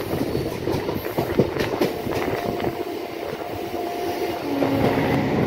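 Electric suburban local train (EMU) running along the track, heard from on board, its wheels clicking over rail joints in the first couple of seconds; the running noise grows louder near the end.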